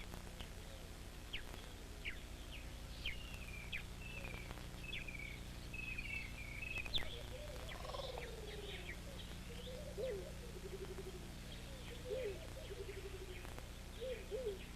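Several birds calling: quick high chirps and short trills, and lower calls repeated in short falling notes, over a steady low hum.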